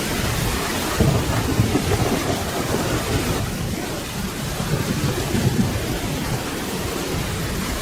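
Steady rain falling, with low rolling thunder rumbling underneath, swelling about a second in and again around five seconds in.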